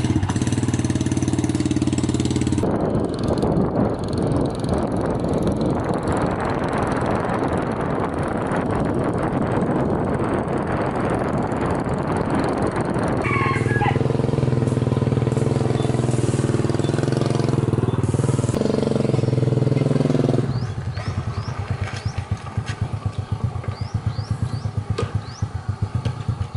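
Small petrol engine running after being started, its speed rising about three seconds in and running rough and fast for some ten seconds, then steadying, and dropping to a slower, quieter, pulsing idle about twenty seconds in.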